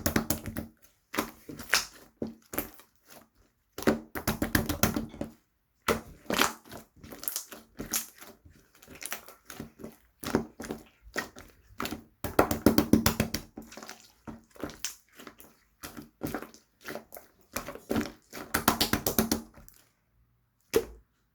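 Hands squishing and pressing slime, making bursts of rapid wet crackling and popping clicks with short pauses between them. Near the end it goes nearly quiet.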